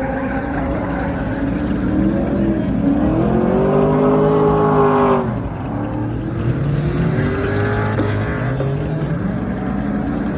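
Car engines revving and accelerating, their pitch climbing and falling. One engine rises steeply and cuts off abruptly about five seconds in, and another climbs and falls after it.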